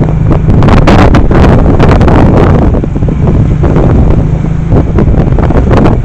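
Heavy wind buffeting the microphone in irregular gusts, over the steady hum and rumble of a moving vehicle's engine.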